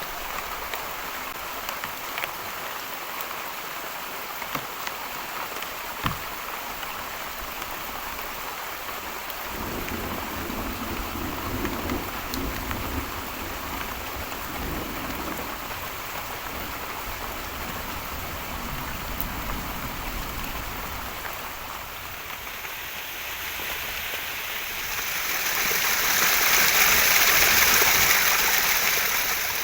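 Heavy rain falling steadily, with scattered sharp drops hitting close by. A low rumble of thunder rolls through from about ten seconds in, and the rain swells to its loudest near the end before easing.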